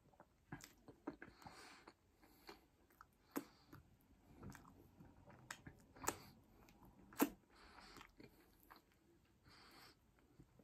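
A person chewing and biting food close to the microphone: soft, wet mouth sounds broken by scattered sharp crunches and clicks, the loudest about seven seconds in.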